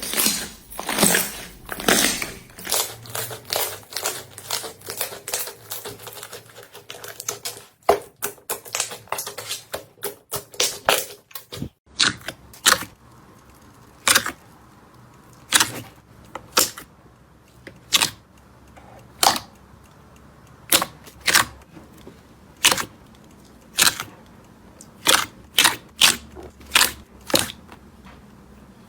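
Slime being squeezed and pressed by hand, making sharp clicking pops as air pockets burst: rapid, crowded clicks for the first dozen seconds, then, after a short break, slower single pops about one or two a second.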